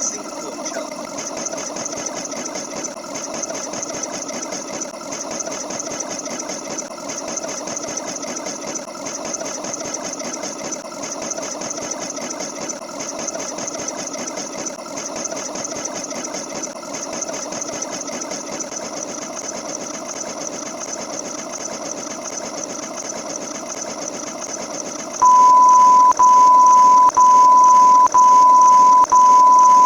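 A small machine running with a fast, even mechanical clatter. About 25 seconds in, a loud, steady high beep cuts in, broken by short gaps about once a second.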